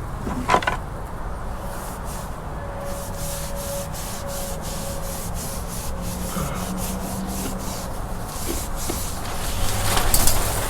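Repeated rubbing strokes on the boat's surface as it is wiped down with acetone before priming, starting about three seconds in and growing louder near the end, with a single knock about half a second in.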